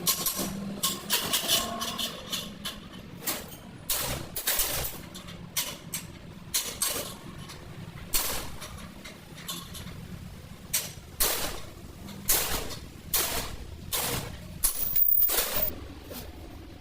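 Irregular series of sharp knocks and clanks, roughly one every half second to a second, typical of hand tools working on metal parts.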